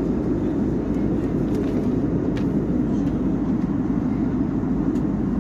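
Steady jet airliner cabin noise in flight: an even, low hum of engines and airflow, with a few faint ticks.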